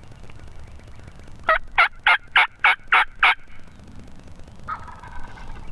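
Wild turkey yelping: a loud series of seven evenly spaced yelps, about four a second, lasting under two seconds. A fainter, drawn-out turkey call follows about a second later.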